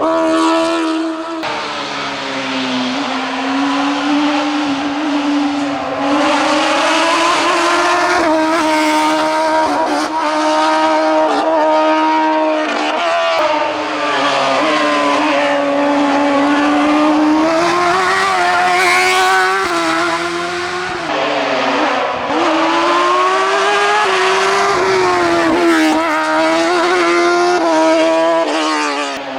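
Semog PR01 sports-prototype hill-climb racer at full pace, its engine revving high and steady in pitch, rising through the gears and dropping back again and again on the lifts and shifts.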